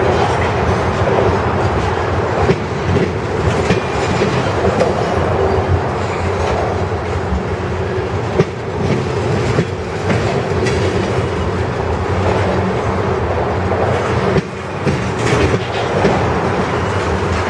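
Freight train cars rolling past steadily, their wheels clicking and knocking over rail joints at irregular intervals.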